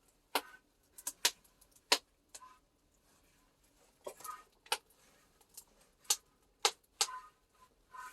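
Irregular sharp crackling pops and clicks from wood-fired cauldron tea roasting, about a dozen spread unevenly, a few with a short metallic ring.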